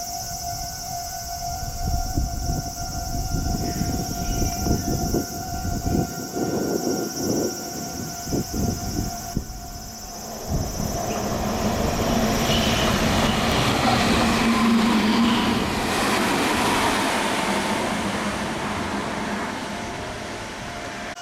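Meitetsu Nagoya Main Line electric train running through the station at speed without stopping. Its rushing noise swells from about halfway, peaks, and fades away. Before it arrives there is a steady high tone, which stops, over gusty low rumble on the microphone.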